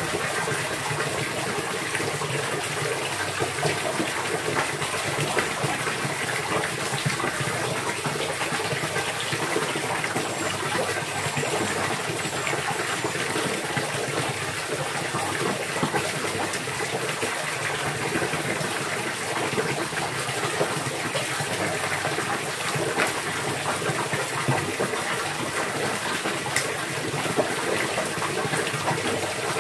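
Running water gushing steadily, an even, unbroken splashing rush.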